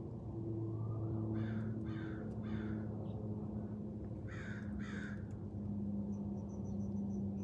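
A bird cawing harshly: three caws, a pause, then two more, over a steady low hum. Near the end comes a quick run of short, high, thin notes.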